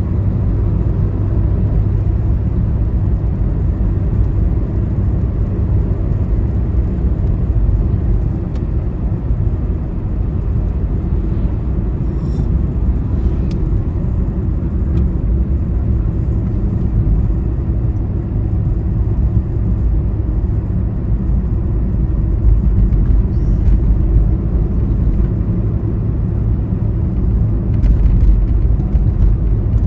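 Steady low rumble of a vehicle travelling at speed on a highway, engine and tyre noise heard from inside the moving vehicle, with a few faint clicks.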